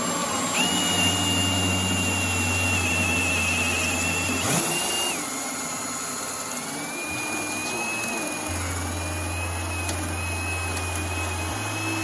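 A power tool running steadily with a loud rushing noise and a high whine. The whine breaks off about five seconds in and comes back a little lower.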